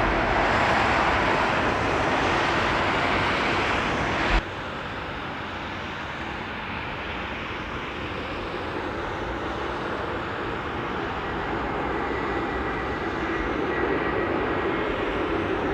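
Jet airliner engine noise: a loud, even rush that cuts off suddenly about four seconds in. A quieter jet rush with a faint high whine follows and slowly grows louder as the next airliner approaches to land.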